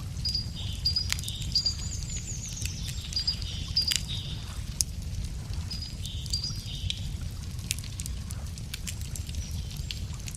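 Wood campfire crackling, with sharp pops scattered through, the loudest a little after one and a half seconds and near four seconds. Over it, small birds sing in repeated short high notes for the first four or so seconds, again around six to seven seconds and briefly near the end, over a steady low rumble.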